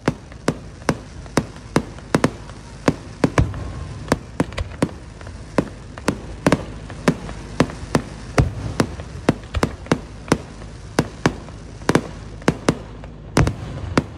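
Fireworks display of aerial display shells launching and bursting: a rapid, irregular string of sharp bangs, about two to three a second, with no pause between them.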